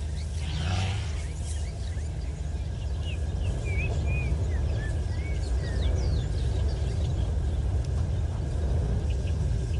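Bird calls: a string of short chirps sliding up and down in pitch, over a steady low rumble.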